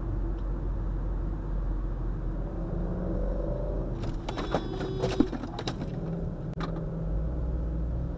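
Moving vehicle's road and engine noise, a steady low rumble, with a cluster of sharp clicks and knocks about four to five and a half seconds in and one more click a little later.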